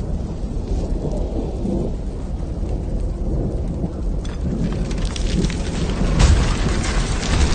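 Sound-design rumble of a volcanic eruption: a continuous deep rumble, joined about four seconds in by a growing patter of many small hits like rain, with one sharp crack about six seconds in.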